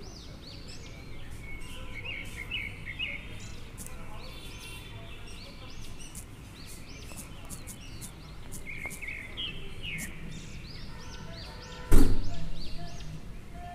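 Small birds chirping repeatedly over a steady low background rumble. About twelve seconds in, a single loud thump dies away over a second.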